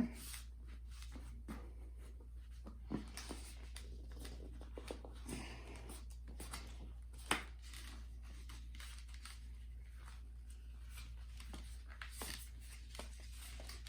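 Poster board cardstock being folded and creased by hand: scattered soft rustles and crisp paper clicks, with a sharper snap about seven seconds in, over a steady low hum.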